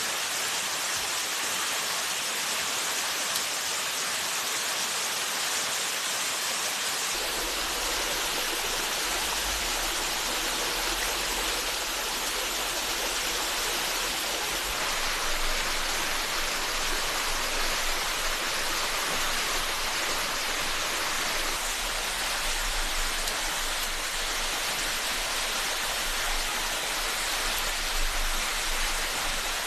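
Forest stream water rushing and splashing in a steady, even wash. A low rumble joins about seven seconds in.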